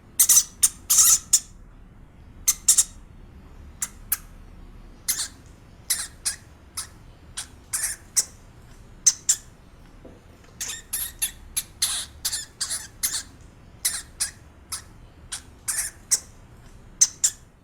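Rapid, irregular series of short, very high-pitched squeaks from a small animal, a few a second, over a faint low hum.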